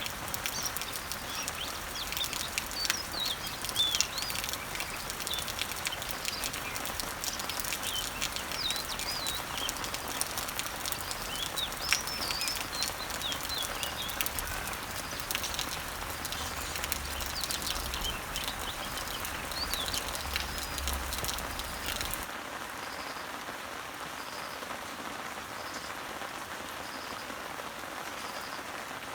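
Rain pattering on garden leaves, many drops ticking sharply, with birds chirping and twittering over it. About two-thirds of the way through the sound switches abruptly to a quieter, even rainfall without the birdsong, and a faint high note repeats about once a second.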